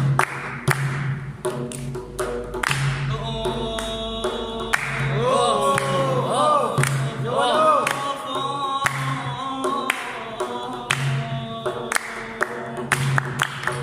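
A man singing a mawliya over rhythmic percussion. His voice enters a few seconds in with long held notes and quick ornamented turns in the middle, then drops out, leaving the steady beat and a low sustained tone.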